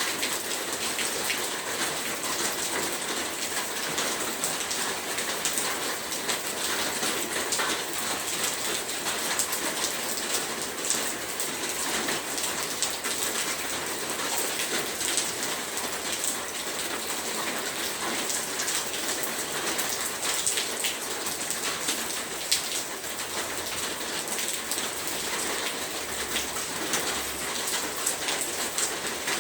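Heavy rain falling steadily, a dense hiss of drops with many fine individual drop ticks on a hard surface.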